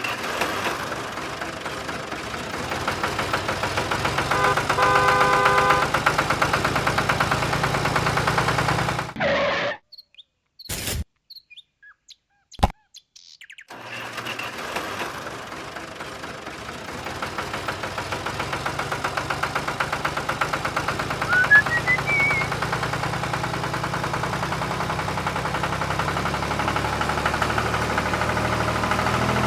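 A small motor running with a fast, even pulse, stopping for a few seconds in the middle with a few clicks, then running again.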